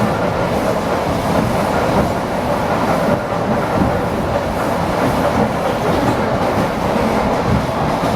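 ED4M electric multiple unit running between stations: a steady rolling noise of wheels on rails, with no change in pace.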